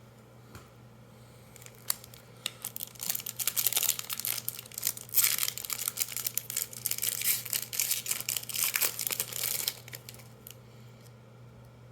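A Magic: The Gathering booster pack wrapper being torn open and crinkled by hand: a dense run of crackles and rustles that starts about two seconds in and stops about two seconds before the end.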